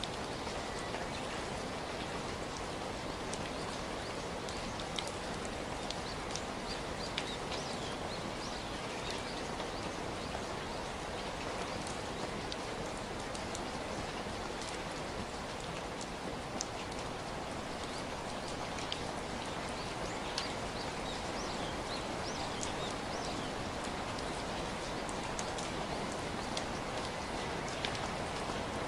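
Steady rain falling, an even hiss with many scattered single drops ticking through it.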